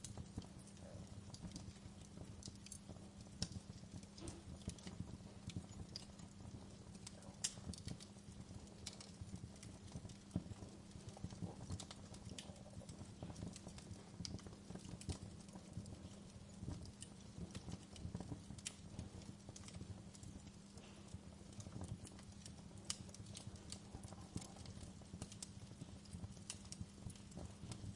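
Wood fire crackling: irregular pops and snaps throughout, over a low steady hum.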